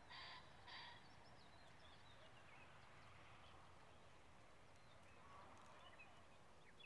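Faint outdoor ambience with small birds chirping at a distance, with two short, slightly louder calls within the first second.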